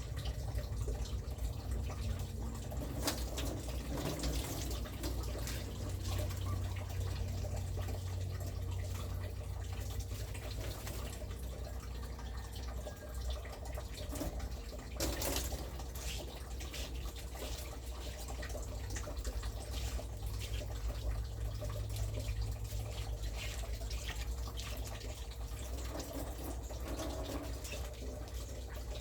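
Water running from a tap into a sink and dripping, with scattered short clinks and knocks of items being handled, over a steady low hum.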